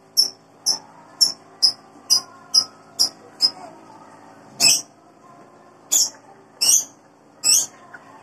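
Close-up crunchy chewing of crisp raw fruit: about two crunches a second for the first three seconds or so, then a pause and four louder, longer crunches spaced out toward the end.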